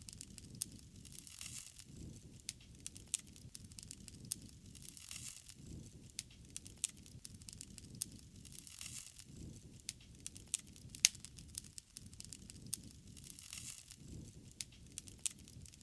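Wood fire crackling, with scattered sharp pops and snaps over a soft, low rush of burning.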